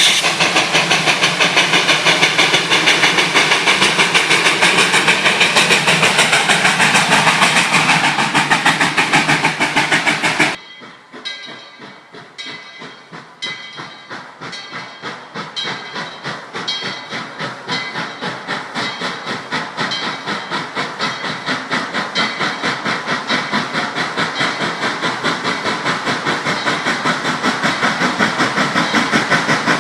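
Narrow-gauge steam locomotive working, its exhaust chuffing in a steady rhythm over a loud steam hiss. About a third of the way in the sound cuts off suddenly to a much quieter chuffing that grows steadily louder.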